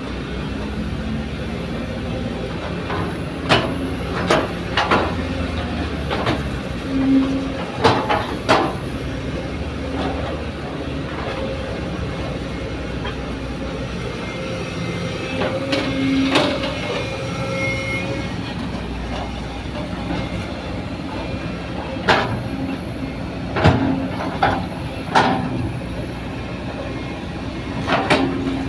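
Excavator's diesel engine running steadily while it works, with sharp clanks and knocks every few seconds, some in quick pairs, from the bucket and soil striking the dump truck's steel bed.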